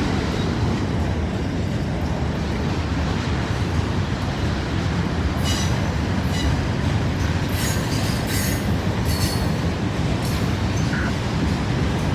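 Freight train cars rolling past with a steady heavy rumble; from about halfway through, short high-pitched wheel squeals come again and again, one every half second to a second.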